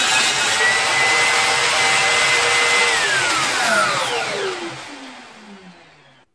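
An electric power tool's motor runs at full speed with a steady whine, then is switched off about three seconds in and spins down, its pitch falling steadily as it fades out.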